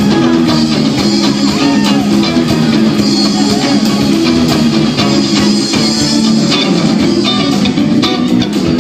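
Rock band playing live: electric guitar with bass and drum kit keeping a steady beat.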